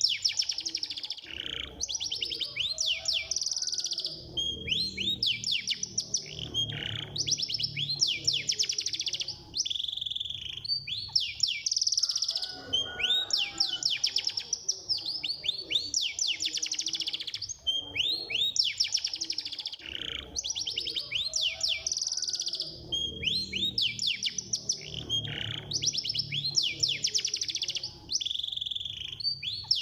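Domestic canary singing a fast, tightly packed song of rapid trills and quick sweeping notes, phrase after phrase without pause, in the 'speed' style used as a training song to set other canaries singing.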